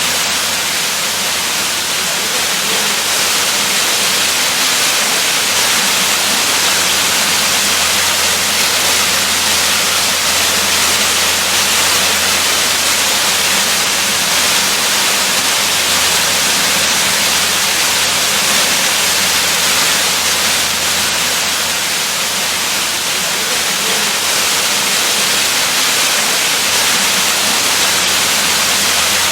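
Waterfall: a steady, even rush of falling water, loudest in the hiss range, with no change in level.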